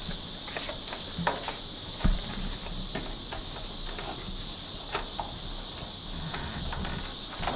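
Steady high insect chorus, like crickets. Over it come scattered small clicks and knocks from hands working weatherstripping into a truck door's window channel, with one sharper thump about two seconds in.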